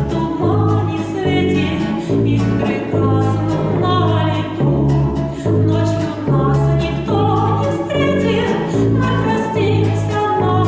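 Music: a woman singing a slow song with instrumental accompaniment over a regular, repeating bass line.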